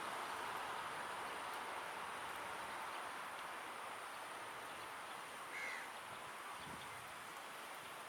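Steady outdoor background hiss with a single short bird call a little past halfway.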